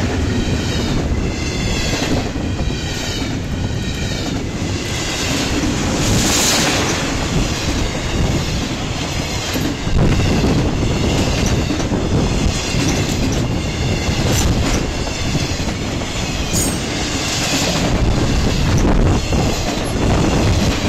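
Intermodal freight train of double-stack container cars and trailer flatcars passing close at speed: steel wheels running on the rails in a steady rumble, with a few sharp knocks.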